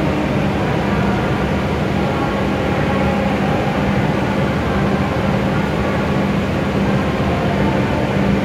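W7 series shinkansen standing at the platform, its onboard equipment giving a steady hum with a constant low tone.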